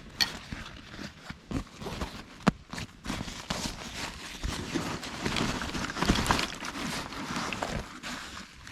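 Handling noise from gear being moved about, with rustling and scattered clicks and knocks, thickest in the middle.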